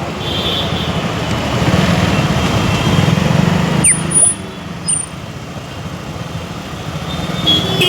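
Motorcycle engine running steadily under way, with street traffic noise around it; the engine eases off after about four seconds. A vehicle horn sounds near the end.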